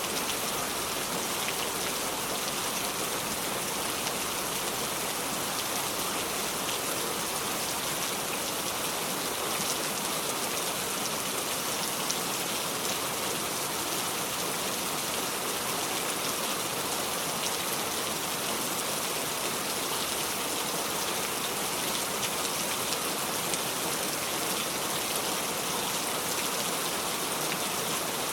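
Steady heavy rain falling, an even hiss with fine drop ticks and no thunder.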